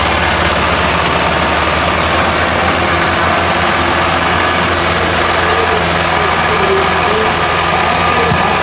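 Tractor diesel engine running steadily with a low, even throb.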